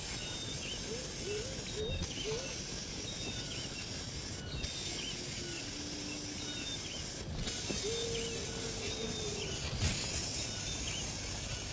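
A steady high hiss, with scattered short chirping calls and one longer whistled note a little past the middle.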